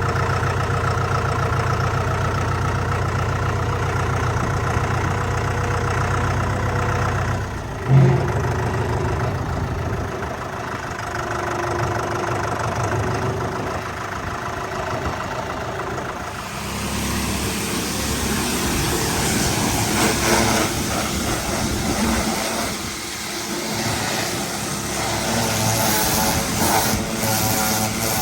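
An engine starts and runs steadily, with a sharp thump about eight seconds in. From about sixteen seconds in, the hiss of a pressure washer's water spray joins the engine.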